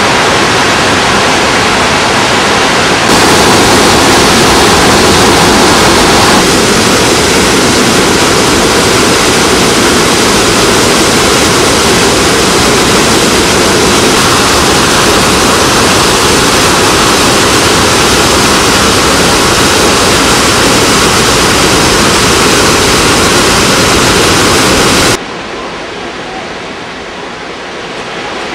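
Krimml Waterfalls seen close up, meltwater falling in a loud, steady rush of water noise; the flow is high with snowmelt. About 25 seconds in the sound drops sharply to a quieter rush.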